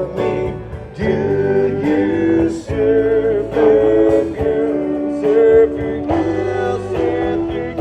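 Live rock band music: strummed electric guitar chords with sustained sung notes.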